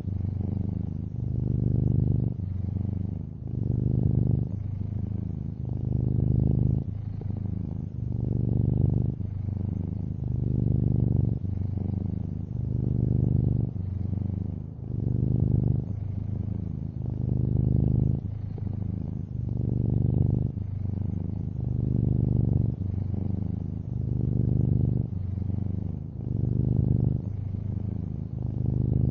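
Long-haired orange tabby cat purring close up, a low steady purr that swells and eases about every two seconds as it breathes in and out.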